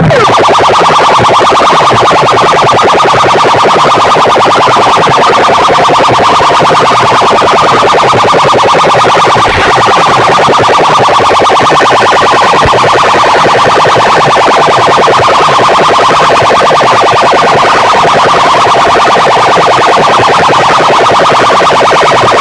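A loud, distorted, siren-like electronic warble blasted without a break through a competition PA rig of horn loudspeakers ('mike'), with a fast pulsing pattern underneath.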